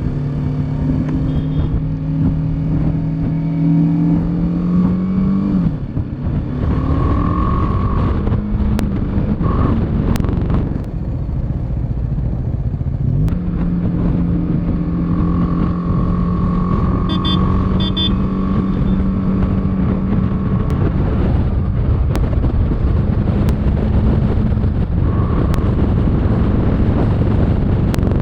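Motorcycle engine running steadily at road speed over a constant rush of road and wind noise. The engine note falls away about six seconds in and picks up again and holds from about thirteen seconds.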